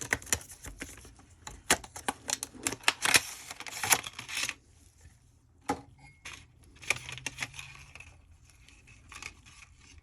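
Handling noise from Casio F91 digital watches being picked up and moved about: a dense run of rustling and small clicks for the first four or so seconds, then a few scattered clicks.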